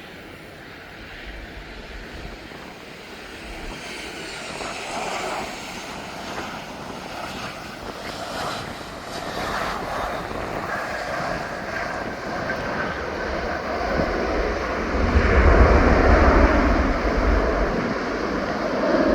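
Airplane descending low overhead: its engine noise grows steadily louder and peaks about fifteen seconds in with a deep rumble, then eases slightly.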